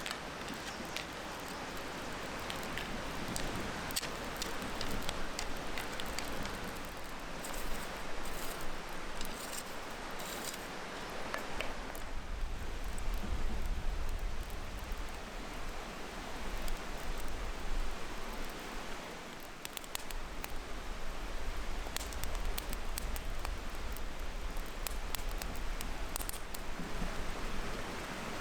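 Wood fire crackling with scattered sharp pops, over a steady sizzle from an iron frying pan of fish cooking on the fire. A low rumble comes in about twelve seconds in.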